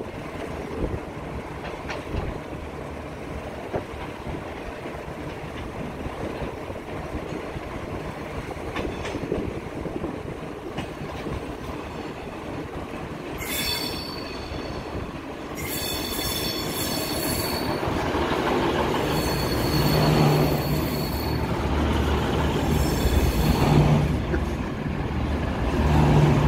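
V/Line VLocity diesel multiple unit approaching and passing close by, its rumble growing louder through the second half. From about halfway there are several short bursts of high-pitched squeal from its steel wheels.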